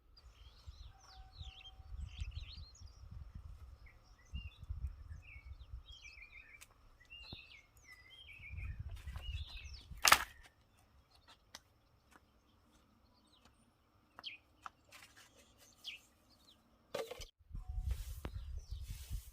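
Small birds chirping repeatedly, with a low intermittent rumble underneath. A single sharp knock about ten seconds in is the loudest sound, followed by a few fainter clicks.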